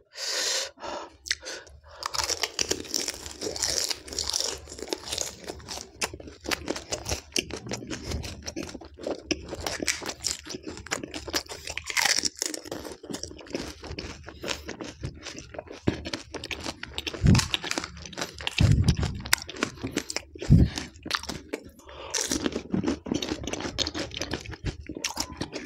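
Close-miked chewing of crisp pani puri shells stuffed with raw green chillies: a steady run of crunches and crackles. A few low thumps come about two-thirds of the way through.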